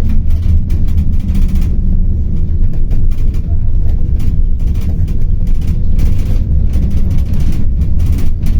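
City bus in motion heard from inside the cabin: a steady low rumble of engine and road noise.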